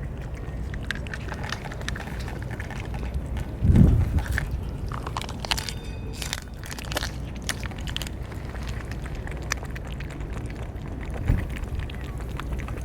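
Cats eating, with scattered crunching clicks over a steady low rumble; a dull thump about four seconds in is the loudest sound.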